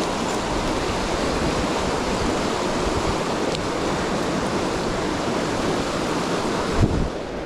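Mountain stream water rushing steadily over rocks. Near the end there is one short low bump, after which the rush sounds duller.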